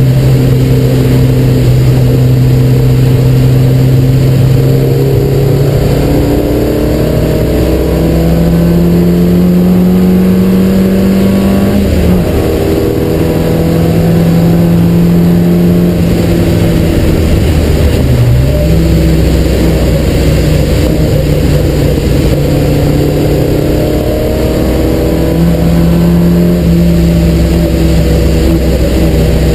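Triumph Spitfire race car's four-cylinder engine heard from inside the cockpit under hard running: steady revs at first, then climbing, with two brief dips in revs about twelve and eighteen seconds in before it rises again.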